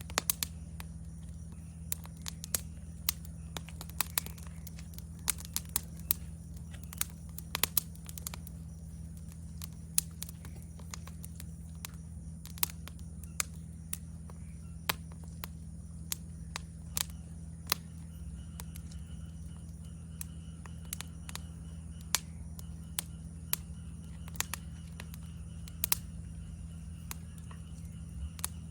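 Wood fire crackling with frequent irregular sharp pops, over a steady high-pitched insect chirring; a second, lower insect trill joins about two-thirds of the way through.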